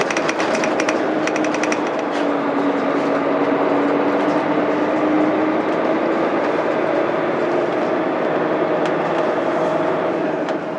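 Mitsubishi Fuso Aerostar bus's 12.9-litre 6M70 diesel engine idling steadily while the bus stands at a stop, heard inside the cabin. A fast ticking runs through the first two seconds.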